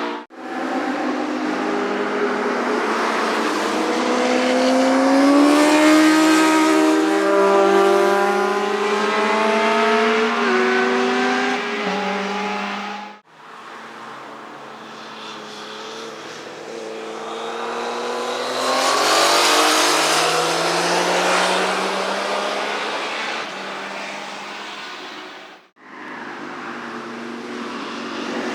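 Motorcycle engines accelerating past on a race track, their pitch climbing steadily with a drop at a gear change. The sound comes in three segments, each broken off by an abrupt cut, about halfway and near the end.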